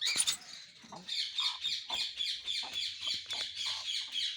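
Small birds chirping rapidly and continuously, many short high chirps several times a second, starting about a second in after a brief clatter.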